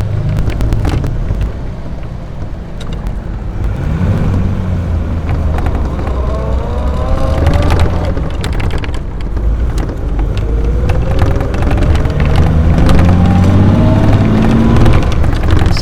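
AC Buckland's straight-six engine pulling the car along from inside the moving car, rising in pitch as it accelerates, dropping about halfway through at a gear change, then rising again.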